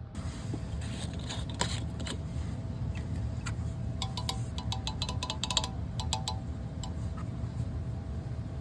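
Quick light clicks and rattles of pipe fittings being handled, bunched together in the middle of the stretch, over a steady low hum.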